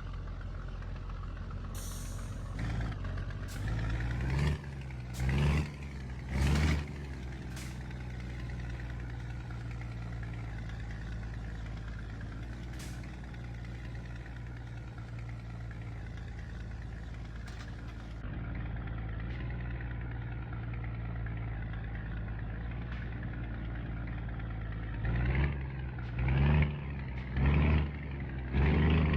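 Scania truck's diesel engine running at a steady pitch. Three short louder bursts come about four to seven seconds in, and another run of them near the end.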